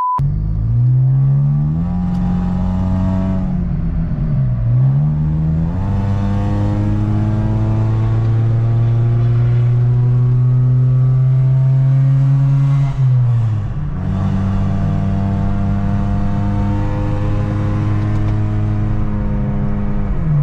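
2004 Honda Civic coupe's four-cylinder engine accelerating through the gears: its pitch climbs, then drops sharply at an upshift about four seconds in and again about two-thirds of the way through, before holding steady at cruise.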